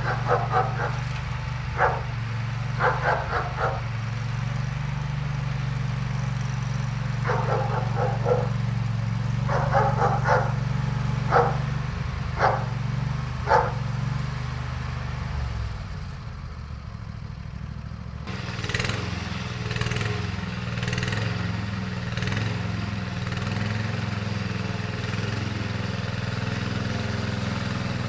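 A small lawn tractor engine running steadily, while a dog barks in short bursts through the first half. About two-thirds of the way in, the engine sound dips and then comes back changed and busier.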